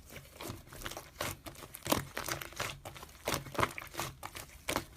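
Slime being pressed and squeezed by hand, with a quick, irregular run of small crackling, crinkling clicks.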